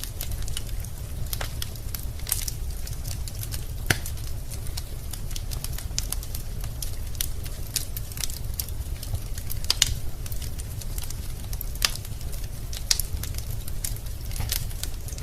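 Wood logs burning in a fireplace, crackling with irregular sharp pops and snaps over a steady low rumble. A few louder pops stand out now and then.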